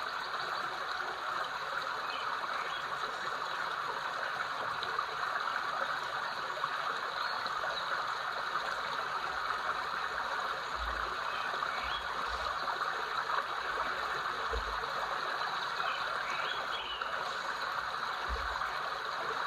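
River water flowing steadily with an even rushing sound, with a few faint high chirps now and then.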